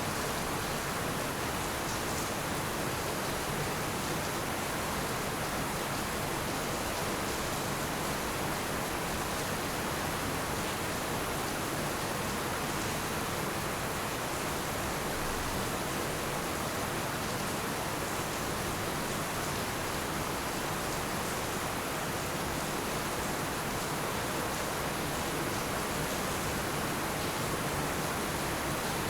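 Heavy rain falling steadily, a dense, even hiss with no individual drops, thunder or breaks.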